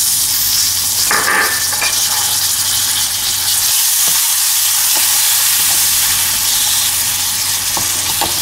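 Boiled green peas sizzling loudly in hot oil and spices in a steel pan, stirred with a steel spoon, with a few light scrapes and taps of the spoon against the pan.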